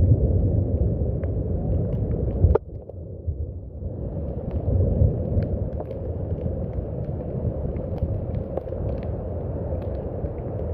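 Steady rain with a deep low rumble under it and scattered drop ticks. About two and a half seconds in, a sharp click; the sound drops away and then builds back up to a steady level.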